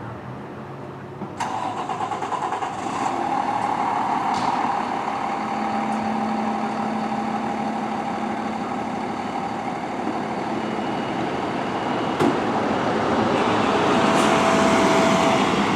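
Heavy fire-apparatus diesel engine running under load, with a steady whine over the engine noise. The sound kicks in abruptly about a second and a half in and stays loud.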